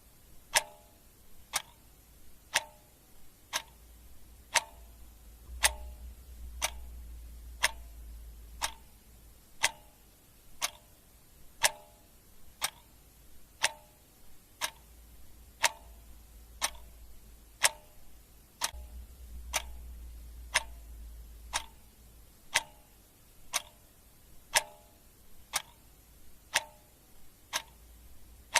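Clock ticking steadily, about one tick a second, with a faint low rumble swelling and fading underneath.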